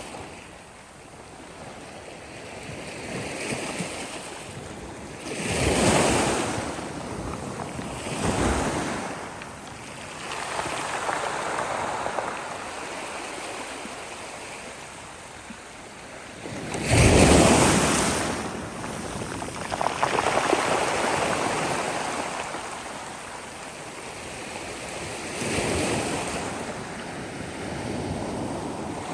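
Sea waves breaking on the shore: a rushing wash that swells and ebbs every few seconds. The biggest break comes about seventeen seconds in.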